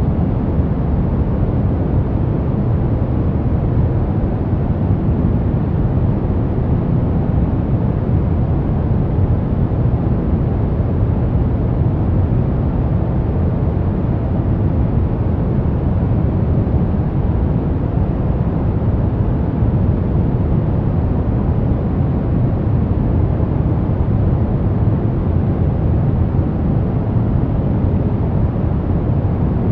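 Steady white noise for baby sleep: an even, unbroken hiss weighted heavily toward the low end, deep rather than bright.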